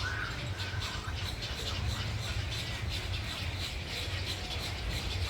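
Colony of nesting birds squawking and chattering, many short overlapping calls, with a steady low rumble underneath.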